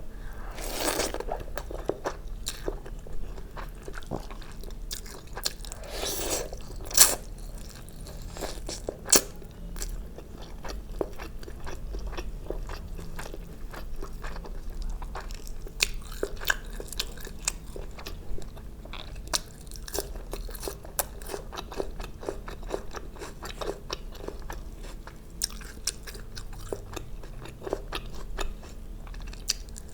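Close-miked chewing and biting of food, a steady stream of wet mouth clicks and crunches, with a couple of sharper crunches about seven and nine seconds in.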